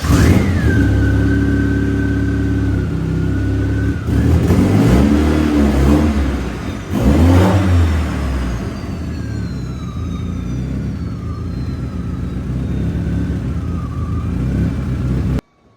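Turbocharged Audi 1.8T four-cylinder engine catching as it starts, revved up twice, then running with a wavering whine before the sound stops abruptly near the end.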